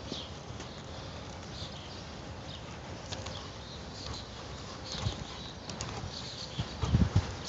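Birds chirping on and off over steady outdoor background noise, with a cluster of dull low thumps near the end.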